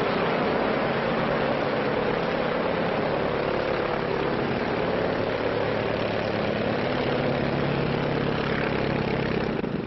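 An engine running with a steady drone.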